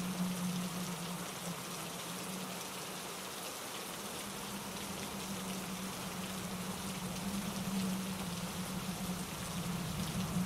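Steady rain falling on leaves and pine needles, with fine scattered drops over an even rush, and a steady low rumble of water beneath, as from a mountain stream tumbling over rocks.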